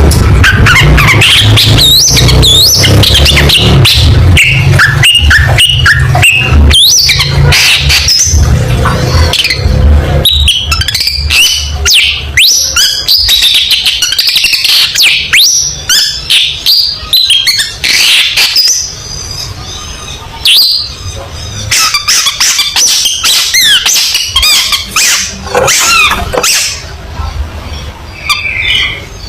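Long-tailed shrike (cendet) singing hard, a fast, varied run of sharp chirps, whistled pitch glides and harsh clipped notes. A low hum sits beneath the song for roughly the first twelve seconds.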